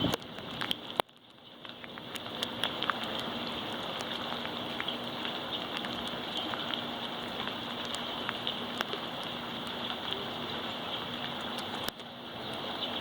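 Steady rain falling, with individual drops ticking close by. The sound cuts out abruptly about a second in and fades back, and dips briefly again near the end.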